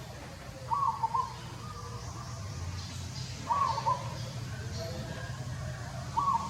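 A bird call repeated three times, about every two and a half seconds, each a short two-part phrase, over a steady low rumble.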